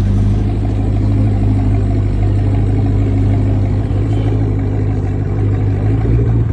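Car engine with a loud exhaust running at a steady idle close by, a deep even hum with no revving.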